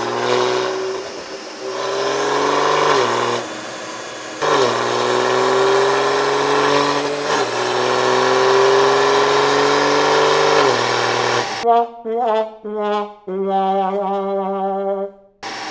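A car engine pulling under hard acceleration, its note rising slowly and dropping sharply at each gear change, heard with music. About twelve seconds in, the engine sound stops and a short phrase of brass-like music notes follows.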